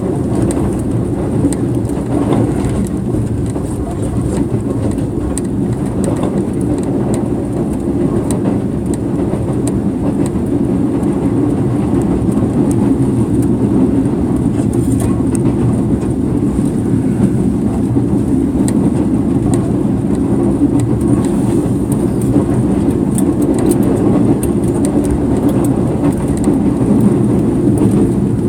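Steady rumble of a moving passenger train heard from inside an air-conditioned sleeper carriage.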